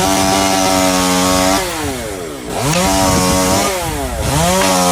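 Two-stroke chainsaw revved three times. Each time it rises to a high, steady pitch, holds there for a second or so, then falls back toward idle.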